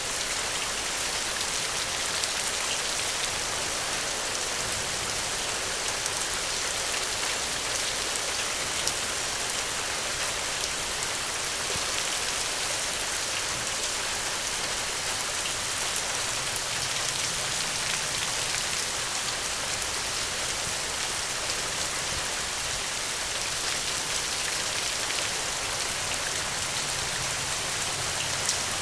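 Steady gentle rain falling, an even hiss with small drop ticks scattered through it.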